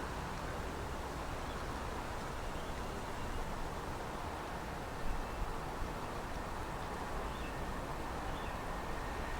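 Steady outdoor background noise: a low rumble and hiss, with a few small knocks about five seconds in.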